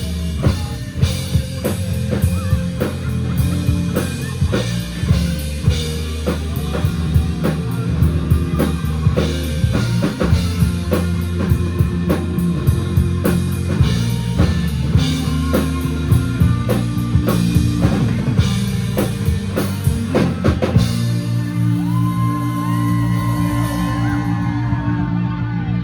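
Live rock band playing an instrumental passage: drum kit, electric guitars and bass. About 21 seconds in the drums drop out, leaving sustained chords with gliding high notes over them.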